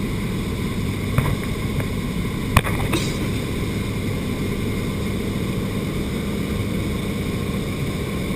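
Steady drone of a propeller aircraft's engine. Sharp clicks or knocks come about a second in and twice more around two and a half to three seconds in.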